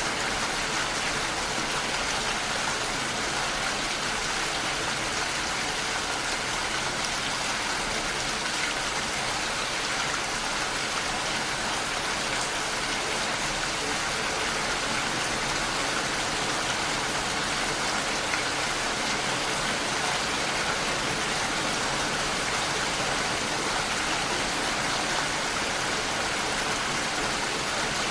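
Steady rain falling and pattering against a window pane, a constant even hiss of drops with no pauses.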